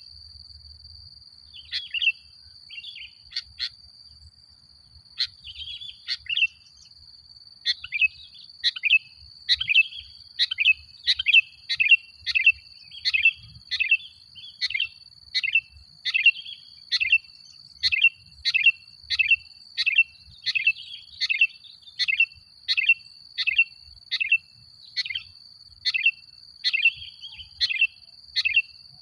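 Sooty-headed bulbul (kutilang) giving short, repeated chirping calls. They are scattered at first, then come about one and a half a second from around eight seconds in, over a steady high whine.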